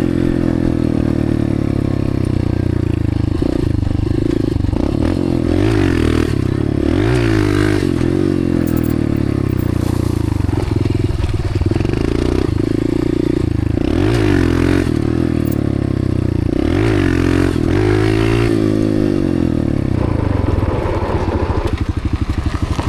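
Dirt bike engine being ridden hard, its pitch rising and falling over and over with the throttle and gear changes. Near the end it drops to a slow, pulsing low-rev beat.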